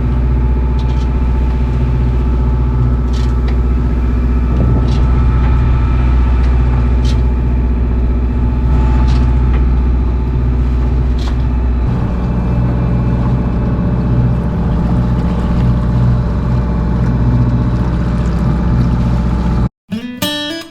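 A sailboat's engine running steadily under way, motoring with the sails down; its note shifts a little about twelve seconds in. It cuts off just before the end.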